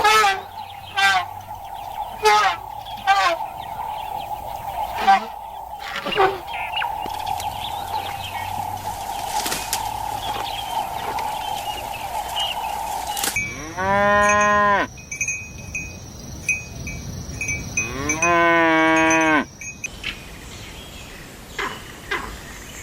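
A cow mooing twice: two long, loud calls a few seconds apart, each rising then falling in pitch, coming about halfway through. Before them there is a steady high tone with a series of short, sharp sounds.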